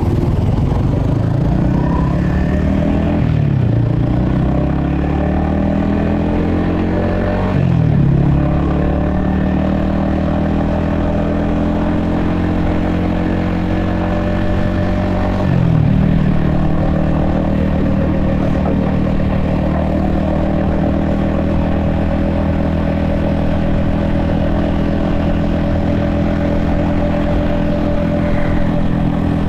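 Yamaha XSR155's 155cc single-cylinder engine pulling through the gears: its pitch climbs and drops sharply at each of three upshifts in the first half, then holds steady at cruising speed.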